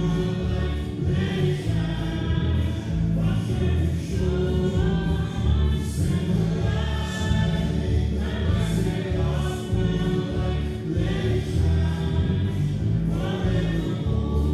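Gospel choir singing over a band with a steady bass line and beat.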